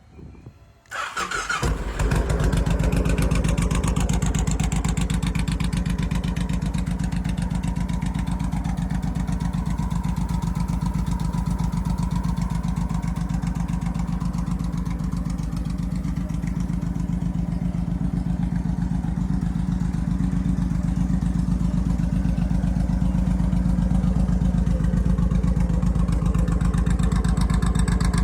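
Honda VTX 1800's liquid-cooled V-twin engine starting about a second in after a brief crank, then idling steadily with an even, loud exhaust pulse.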